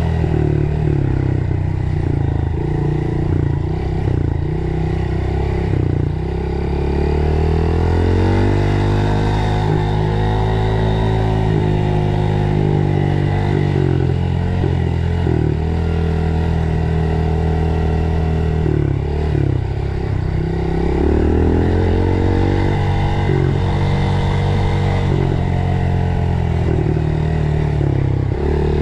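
Dirt bike engine running under way, its pitch climbing and falling back several times with brief dips as the rider works the throttle.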